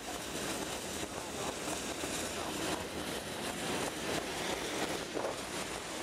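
Steady running noise of a steam-hauled passenger train in motion, heard from aboard: the carriage rolling along the track.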